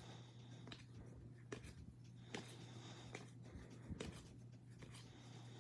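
Faint soft clicks and rubbing as trading cards are slid and flipped through by hand, over a low steady hum.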